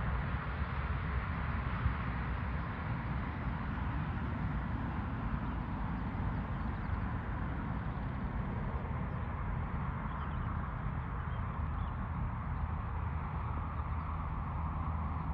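Steady rumble and hiss of jet aircraft engines that slowly eases off.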